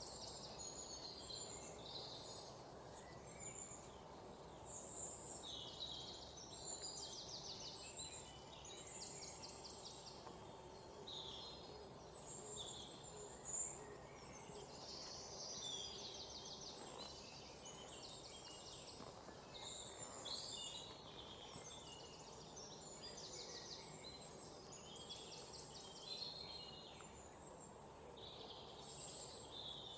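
Several songbirds chirping and trilling at once: overlapping short, high calls and rapid trills, with one louder sharp note about halfway through, over a faint steady background hiss.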